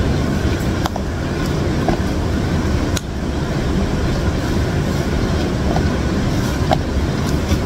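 Heavy rain falling steadily, a dense rushing noise, with a few light clicks of wooden utensils against the bowl as instant noodles are tossed.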